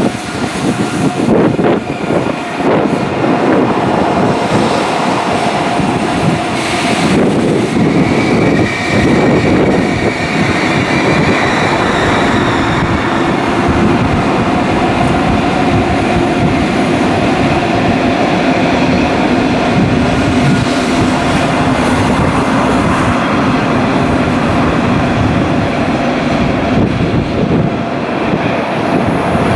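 Electric passenger trains running on the tracks below, a steady rumble of wheels on rail with clickety-clack and a high whine for a few seconds about a third of the way through, with wind buffeting the microphone.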